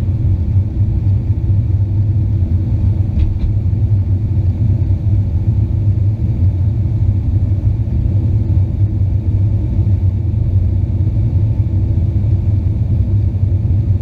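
Steady low rumble inside the passenger cabin of an Avro RJ85 airliner, from its four turbofan engines running at an even setting.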